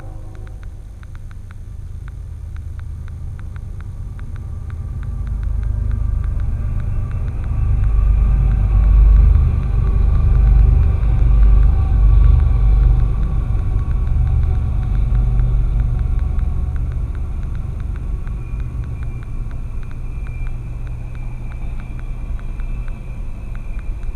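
Deep rumble of a train going by, picked up by a dashcam: it builds to its loudest about 8 to 13 seconds in, then slowly eases off, with a fast rattle of clicks underneath.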